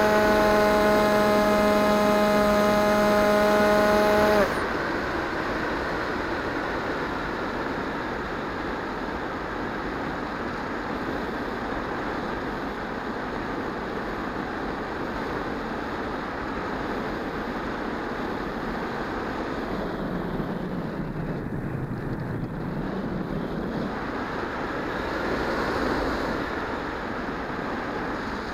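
Electric pusher motor of an EasyStar 2 radio-control plane running at a steady pitch, then cut off abruptly about four seconds in. After that only a steady rush of air noise remains as the plane glides with the motor off.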